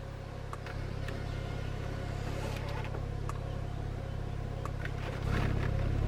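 Porsche 911 Turbo Cabriolet's power soft top in operation: a steady low motor hum with scattered clicks from the roof mechanism, growing louder about five seconds in.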